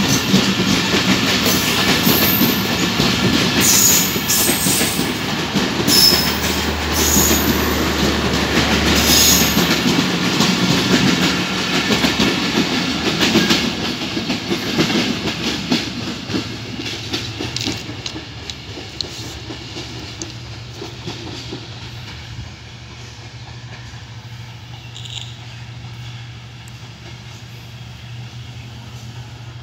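Bangladesh Railway passenger coaches of the Rupsha Express rolling past on the rails, the wheels clattering over the rail joints with a few short high-pitched squeaks. The clatter then fades away over the second half as the train draws off into the distance.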